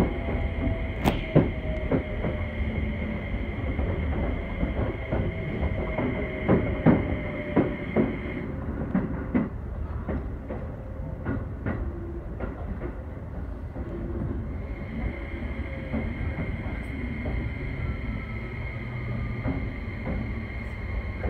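Keio 5000 series commuter train running, heard from inside the car: a steady rumble with repeated clicks of the wheels over rail joints and a steady high whine that drops out for a few seconds in the middle. A faint motor tone falls in pitch, most clearly in the second half, as the train slows.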